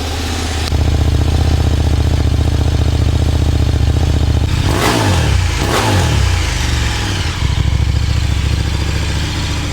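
KTM Super Duke 1390 R's V-twin engine running through its exhaust, getting louder just under a second in. It takes two quick throttle blips about five and six seconds in, then settles back to a steady note.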